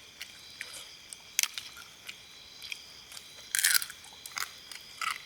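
Irregular crunches and clicks, with a louder rustle about three and a half seconds in, over the steady chirring of insects.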